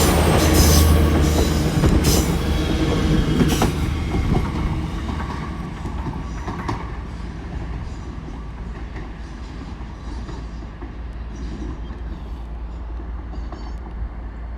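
A nine-coach Great Western Railway IET train pulling out of the station, with engine hum, wheel rumble, light squeal and a couple of clacks over the rails. It is loud at first and fades over the first few seconds to a low distant rumble.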